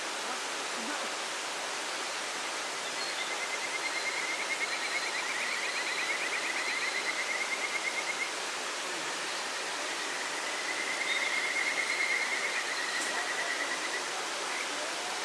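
Steady rushing noise like running water, with a high, rapid trill sounding twice, each time for several seconds.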